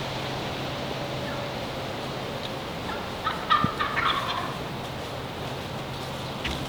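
A wild turkey gobbles once, a short rattling jake gobble about three seconds in, over steady wind hiss.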